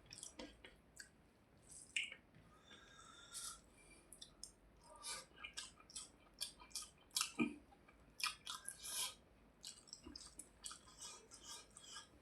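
Close-miked eating sounds: a person chewing a mouthful of rice and fish, with irregular wet smacks and clicks of the mouth.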